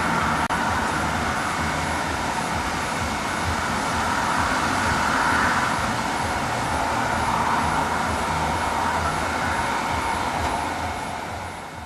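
Steady rushing background noise, boosted in volume, with a faint steady high whine in it. It dips briefly about half a second in and fades away at the very end.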